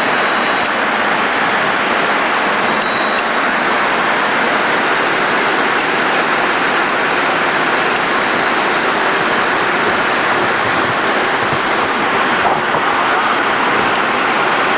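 Steady, even rushing noise on the flight deck of a Boeing 737-200 freighter: air and engine noise, with no change in pitch or level.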